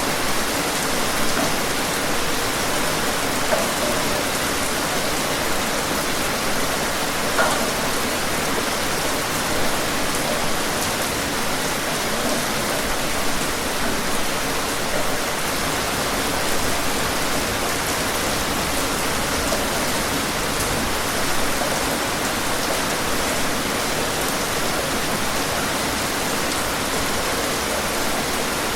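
Steady rain falling on a surface, an even hiss with scattered louder drop hits.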